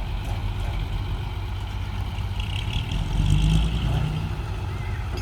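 Diesel engine of heavy earthmoving machinery running steadily, louder for about a second around three seconds in.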